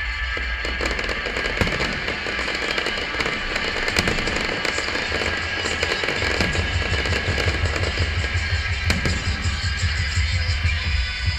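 Fireworks bursting over music, with many sharp bangs and crackles following close on one another and a deep low rumble.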